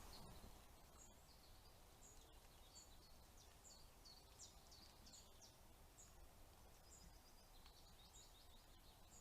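Faint songbird calls over a steady hiss. Short high chirps repeat about once a second, with runs of quick downward-sliding notes.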